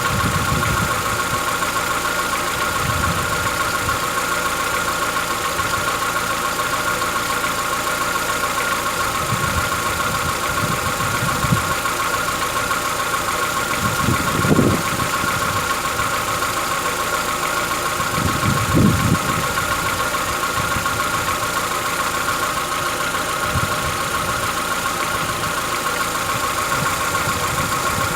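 Chevrolet Onix 1.4 four-cylinder engine idling steadily with a diesel-like clatter, which the owner takes for a tappet knock that sets in at cold start. A few brief low thumps stand out about midway and about two-thirds through.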